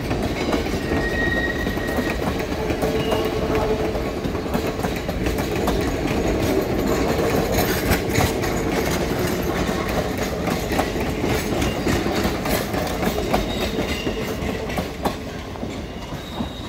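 Essex Steam Train passenger coaches rolling past at close range: steel wheels clacking over the rail joints over a steady rumble, easing off a little near the end.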